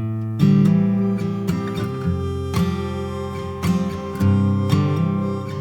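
Background music: an acoustic guitar strumming chords, the instrumental opening of a song.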